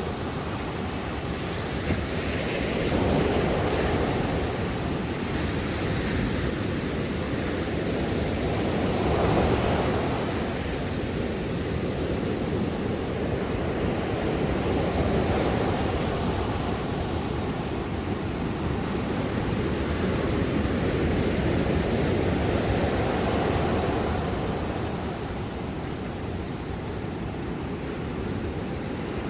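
Ocean waves breaking and washing on a shore, a steady roar of surf that swells and eases every few seconds.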